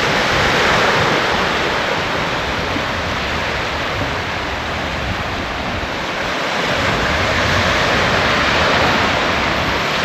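Surf breaking and washing on the shore: a steady rush that eases slightly midway and builds again near the end.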